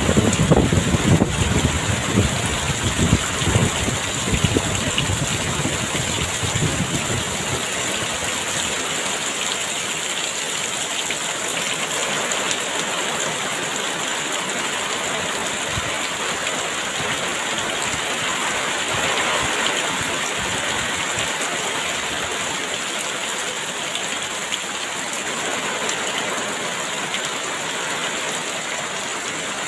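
Heavy rain pouring steadily, a dense even hiss. Gusts of strong wind add a low rumble through roughly the first seven seconds, then die down, leaving the rain alone.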